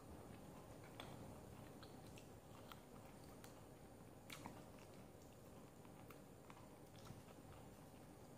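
Faint sounds of a person eating chicken with her fingers: soft chewing with small, irregular mouth and finger clicks, the sharpest about four seconds in.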